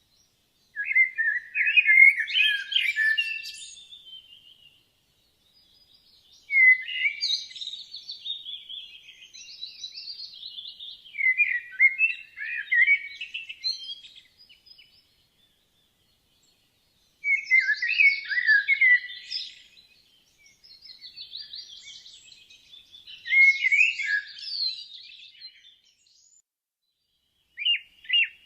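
Songbirds singing: phrases of rapid, varied notes a few seconds long, starting about a second in, then near 7, 17, 23 and 28 seconds, with short silent gaps between them.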